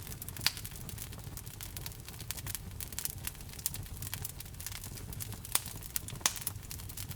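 A fire in a fireplace crackling: a dense run of small sharp snaps over a low, steady rumble of flame. Louder pops come about half a second in and twice near the end.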